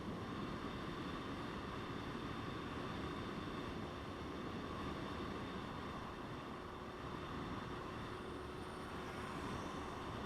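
Motorcycle running at a steady pace with wind and road noise, an even rumble with no sharp changes.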